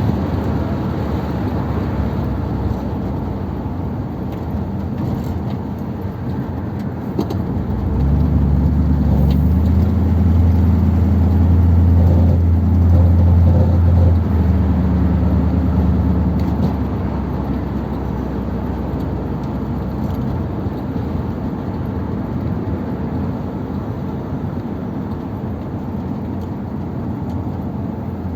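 Ford Thunderbird engine and road noise heard from inside the car while driving. About eight seconds in, the engine note grows louder as the car pulls harder, then eases back about eight seconds later.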